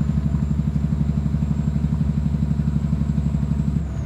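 Vehicle engine running steadily, heard from inside the cab: a rapidly pulsing low drone with a faint high whine above it. Shortly before the end the drone drops and the whine falls in pitch.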